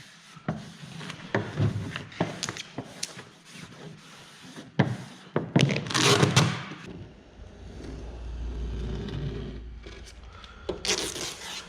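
Handling noises at a workbench while vinyl graphics are applied: scattered clicks and light rustling, with a louder rustle of vinyl or backing paper near the middle. A low rumble follows for a few seconds.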